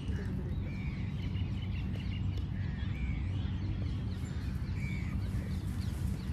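Birds calling outdoors: short chirping calls repeating every second or so, over a steady low rumble.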